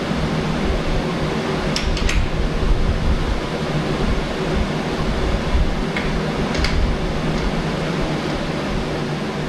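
Electric fan running steadily, with a few light clicks about two seconds in and again past the middle.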